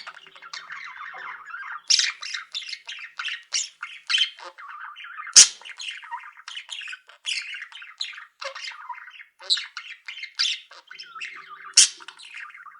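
A flock of caged pet birds, budgies among them, chattering and chirping without pause, with loud, sharp squawks every second or so. Two sharp clicks, about five and twelve seconds in; the first is the loudest sound.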